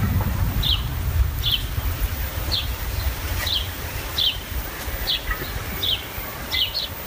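A small bird repeating a short, high, falling chirp a little more than once a second, over a steady low rumble.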